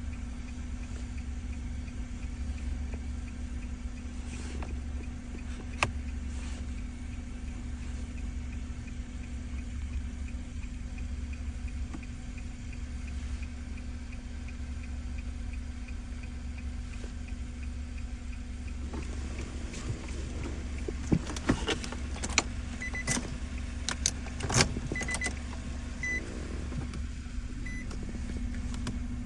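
A steady low hum with a faint, evenly spaced ticking, heard in the cabin of a car, with one click about six seconds in. Near the end comes a quick run of sharp clicks and taps, followed by a few short high beeps.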